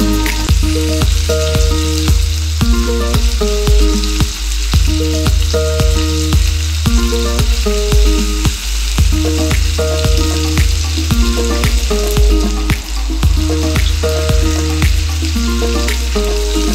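Chicken wings sizzling as they pan-fry in hot oil and sauce, a steady crackling hiss. Background music with a steady beat plays over it.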